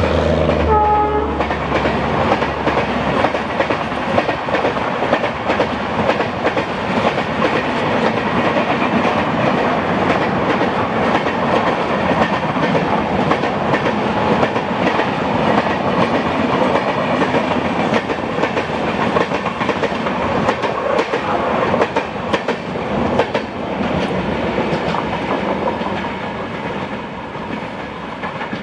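Passenger coaches of a diesel-hauled express train running past at speed, a steady rush with wheels clattering over rail joints. The drone of the WDG4 locomotive's EMD diesel engine dies away in the first couple of seconds, and the whole sound fades over the last few seconds as the train draws away.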